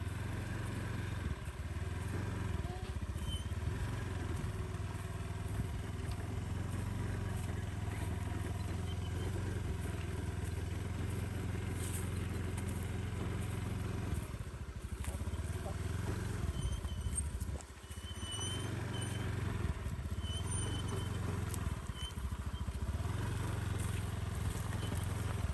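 Motorcycle engine running steadily on the move, with its low hum easing off briefly a few times.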